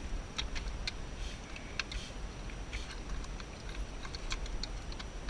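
Irregular light clicks and taps of hands and tools working among the coil packs in a car's engine bay, over a low steady rumble.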